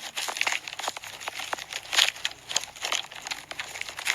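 A rapid, irregular run of crackling, crunching clicks with no call or voice.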